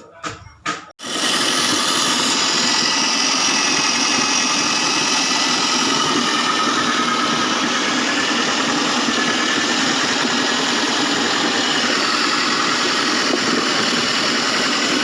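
Foam shredding machine coming on abruptly about a second in, after a few knocks, then running steadily with a loud, even mechanical noise.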